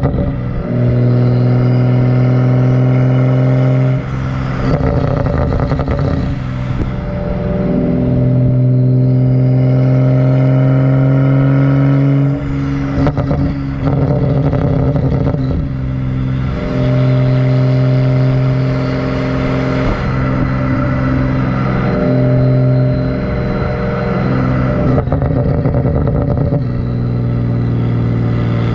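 2011 BMW 135i's turbocharged N55 inline-six, catless with the muffler deleted, driving with a loud exhaust drone. The revs hold or climb slowly for a few seconds at a time, then drop back, about six times.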